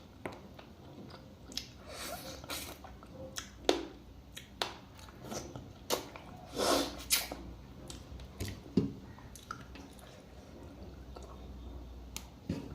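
Close-up eating sounds: wet chewing and smacking of chicken soup and rice, with irregular short clicks and a few longer wet sounds.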